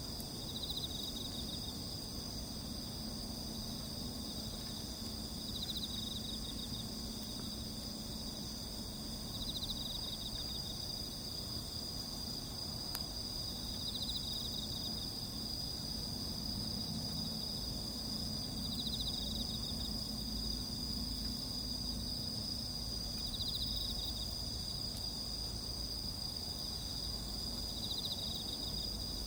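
Insects chirring steadily at a high pitch, with a short trilled call repeating about every four to five seconds, over a low background rumble.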